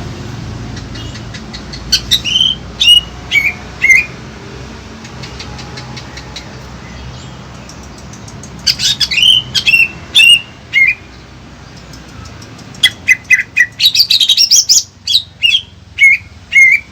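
Songbird chirping in three loud bursts of short, sharply falling notes, with pauses of a few seconds between the bursts.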